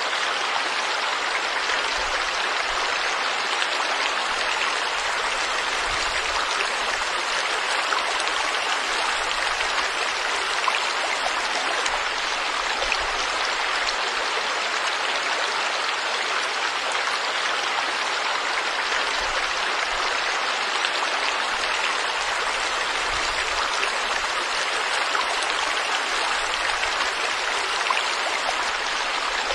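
Steady rushing and splashing of a stream of flowing water, an even noise with no breaks.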